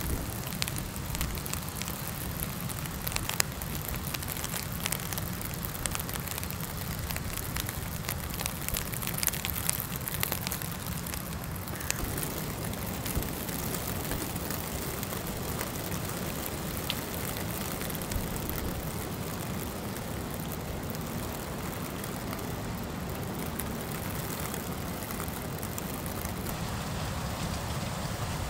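Steady rain hitting a light truck: many small drop impacts over a continuous low rumble of wind.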